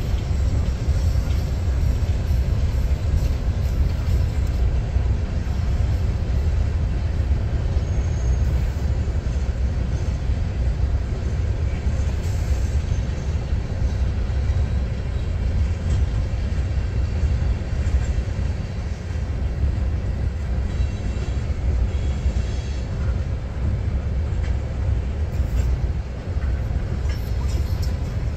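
CSX freight train's hopper cars rolling past: a steady low rumble of steel wheels on the rails.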